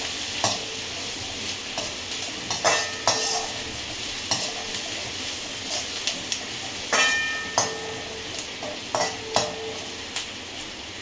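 Sliced onions, green chillies and garlic sizzling in hot oil in a metal kadhai over a high gas flame, stirred with a long perforated metal skimmer. The skimmer scrapes the pan and clinks against it several times, each clink ringing briefly.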